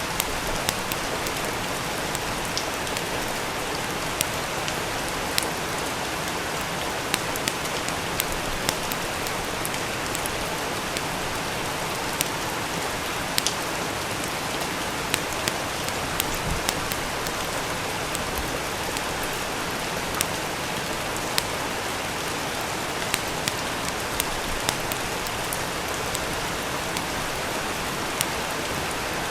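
Steady rain, with irregular sharp crackles and pops from a wood fire in a fireplace, roughly one or two a second.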